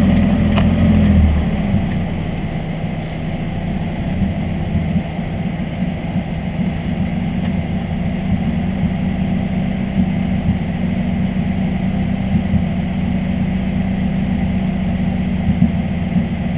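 Mazda Miata's four-cylinder engine, running on a MegaSquirt plug-in engine management system. It is louder for the first second or so as the car comes to rest, then settles to a steady idle.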